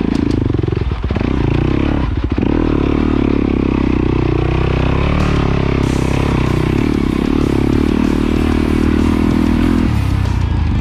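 Trail dirt bike engine running on the move, its pitch rising and falling with the throttle, with two short knocks about one and two seconds in.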